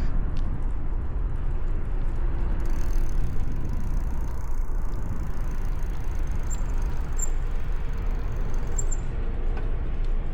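Steady low rumble of wind and road noise on the microphone of a moving bicycle, with traffic in the background.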